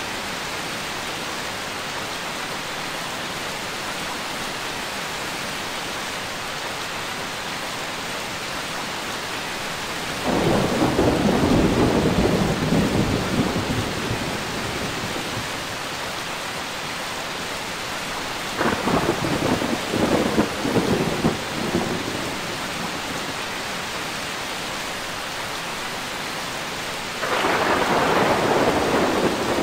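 Steady rain with three peals of thunder: one breaking suddenly about a third of the way in and fading over a few seconds, a crackling series of claps around two-thirds of the way through, and another starting suddenly near the end.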